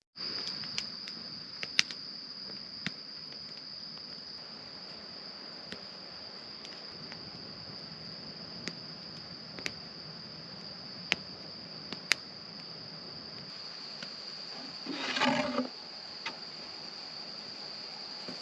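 Crickets or other insects chirring in a steady, unbroken high drone, with scattered sharp pops like a campfire crackling. About fifteen seconds in comes one brief, harsh, louder pitched sound, like an animal call.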